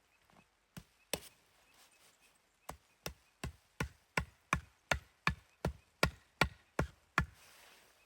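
Wood being chopped with a blade: two strikes about a second in, then a steady run of about a dozen sharp chops, roughly three a second, getting louder.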